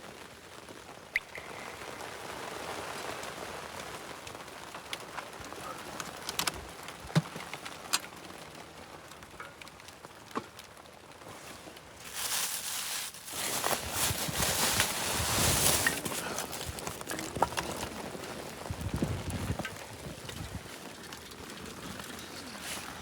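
Blizzard: wind blowing with scattered light ticks of driven snow, and a stronger gust buffeting the microphone from about halfway through for several seconds.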